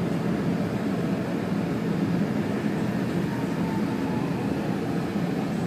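A SEPTA train running along the track, a steady low noise that stays even throughout, heard from inside the car.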